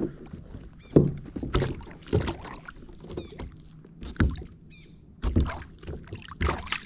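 Irregular knocks and bumps against a kayak, roughly one a second, as gear is handled while a hooked bass is being played.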